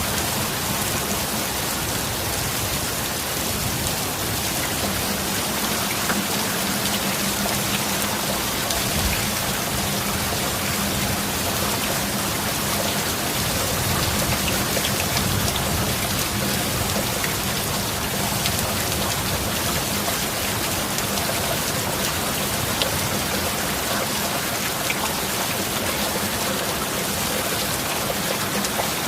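Steady rain falling, an even hiss of drops that holds level throughout, with a faint low steady tone beneath it.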